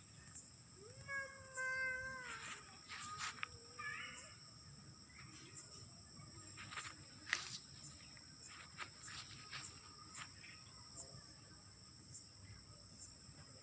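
A short pitched animal call about a second in, over two steady high-pitched tones and scattered faint clicks.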